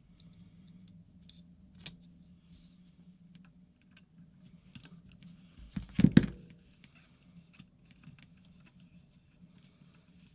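Small metal parts and tools being handled during the teardown of a paintball marker: scattered light clicks and clinks over a low steady hum, with one louder knock about six seconds in.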